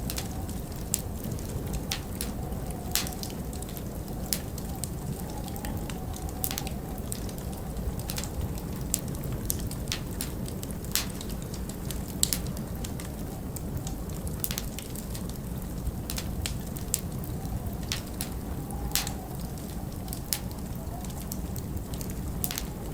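Wood fire crackling, with sharp irregular pops and snaps, over a steady low rumble of storm wind.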